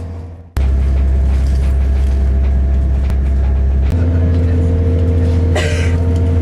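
Steady low rumble of a moving train heard from inside the carriage. The sound fades down and cuts abruptly to another stretch of the same rumble about half a second in, shifts at a second cut near four seconds, and a brief higher sound comes through about five and a half seconds in.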